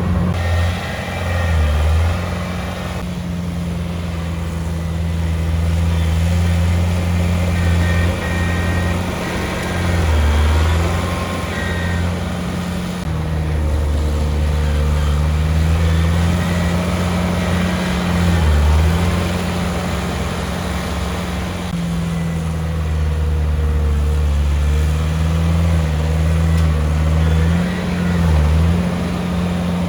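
Komatsu D31P bulldozer's diesel engine running hard, its pitch dipping briefly several times as it works.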